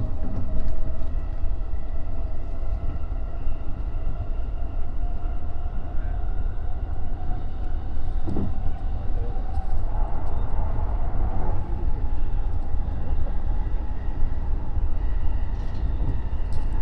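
E233-3000 series electric commuter train running along the line, heard from the front cab: a heavy steady rumble of wheels on rail with a steady whine from the traction motors that rises slightly in pitch. A couple of short knocks, one about eight seconds in.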